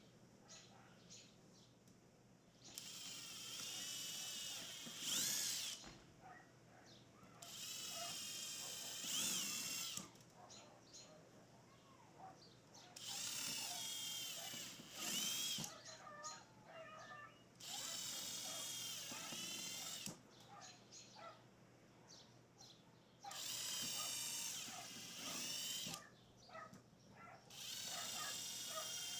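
Power drill driving screws in about six bursts of two to three seconds each. The motor's whine dips in pitch as it loads, and there are small clicks and knocks between the runs.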